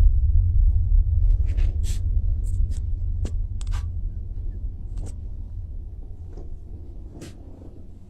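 Deep low rumble that fades steadily away, with scattered faint clicks and ticks over it.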